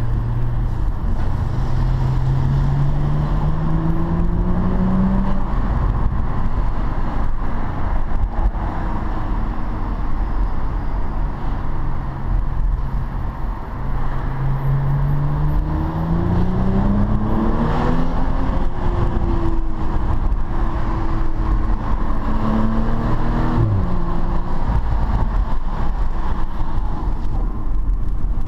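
Audi S4 B9 Avant's turbocharged V6 heard from inside the cabin, pulling through the gears: the engine note climbs in pitch about a second in and drops back, then climbs again from about 14 s in with a run of quick shifts and another rise and fall near the end. Steady road and tyre noise underneath.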